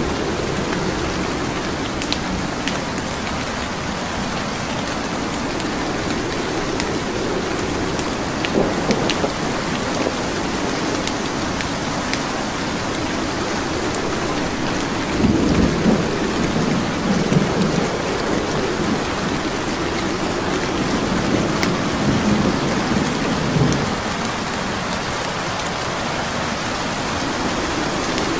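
Steady heavy rain with low rolling thunder, the thunder swelling up about halfway through and again a few seconds later. Sharp crackles of burning wood logs pop now and then over the rain.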